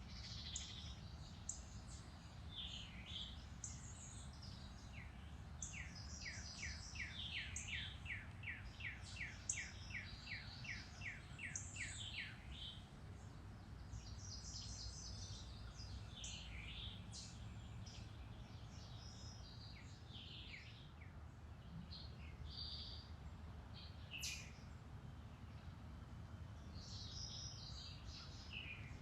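Several woodland birds singing and calling, with one bird repeating a quick series of down-slurred notes for several seconds near the middle. A steady low rumble runs underneath.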